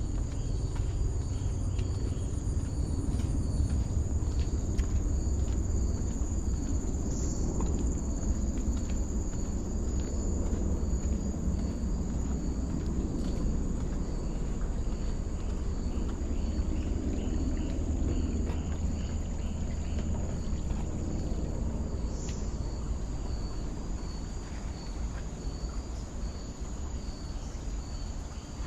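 Insects calling steadily: one high continuous buzz and a rapidly pulsing trill a little lower, over a constant low rumble.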